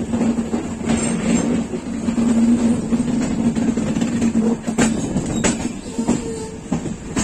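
A passenger train running over the rails, heard from the open coach door. The wheels clatter sharply a few times as they cross rail joints and points, over a steady running hum.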